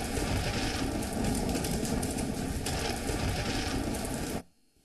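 Heavy rain falling: a dense, steady hiss with a deep rumble underneath, cutting off abruptly near the end.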